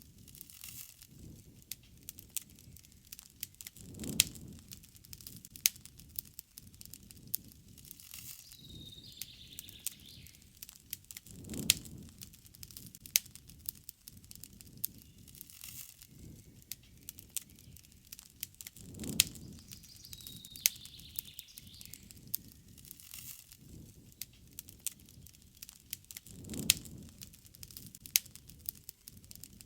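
Wood campfire crackling, with many sharp pops and four low rushes of flame spaced about seven seconds apart. A short bird call sounds twice, about nine seconds in and again near twenty seconds.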